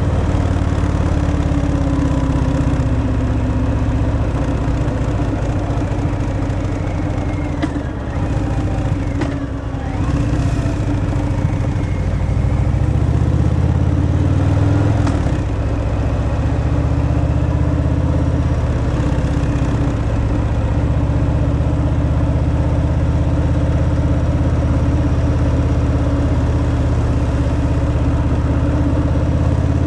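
Harley-Davidson Fat Boy's V-twin engine running through its stock exhaust while riding, with a steady low note that dips briefly about eight to ten seconds in before settling again.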